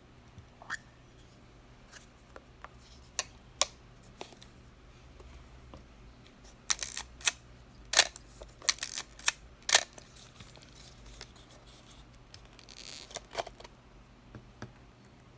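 Minolta X-7 35 mm SLR film camera being worked by hand: a series of sharp mechanical clicks, with the loudest cluster about seven to ten seconds in and a short rasping sound a few seconds later.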